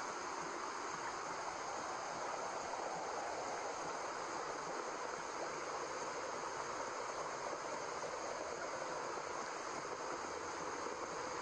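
Steady white noise for baby sleep, a smooth, even hiss like rushing water, its energy weighted toward the middle pitches and unchanging throughout.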